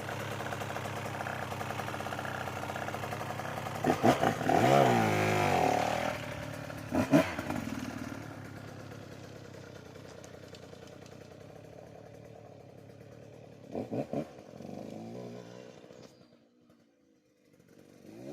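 2025 Husqvarna TC 150 Heritage two-stroke dirt bike engine running, then revving hard with sharp rising and falling pitch around four and seven seconds in, before fading steadily away as the bike rides off.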